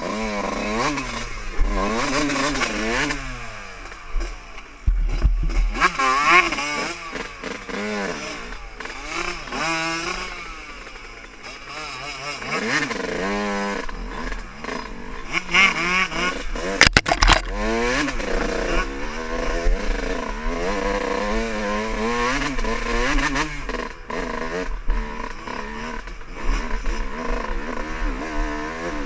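Dirt bike engines revving up and down as they ride, their pitch rising and falling again and again, with more than one engine heard at times. A quick cluster of sharp knocks comes a little over halfway through.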